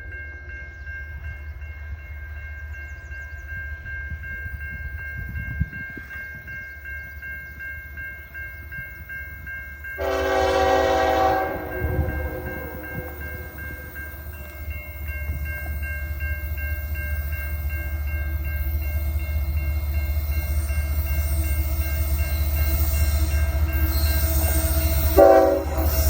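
CN freight locomotive's Nathan K5HL five-chime air horn sounds one blast about ten seconds in and a short toot near the end. Underneath, the rumble of the approaching diesel train grows steadily louder.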